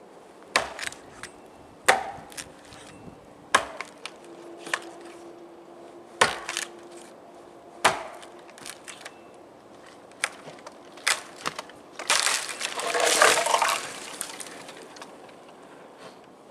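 Hatchet chopping into a standing dead tree, five sharp knocks with smaller taps between, then about twelve seconds in a longer crackling crash lasting about two seconds as the dry tree gives way.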